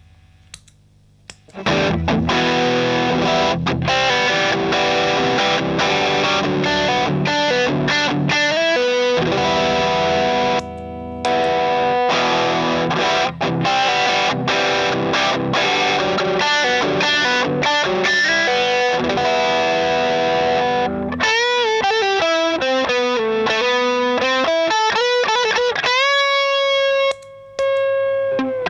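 Electric guitar played through an overdrive pedal. After a quiet start it plays driven, sustained chords, then turns to single-note lead lines with string bends.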